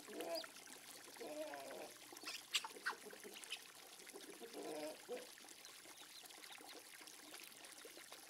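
Water from a hose trickling steadily into a shallow pond, with a few brief calls over it, the clearest about a second and a half in and again around five seconds, and some short high chirps in between.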